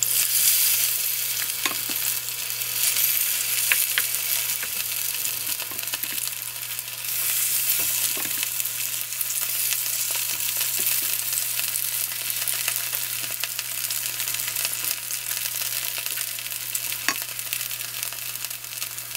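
Kimchi pancake batter sizzling in a generous layer of hot oil in a nonstick frying pan, a steady crackling hiss, with occasional light taps and scrapes of a wooden spatula as the batter is spooned in and spread.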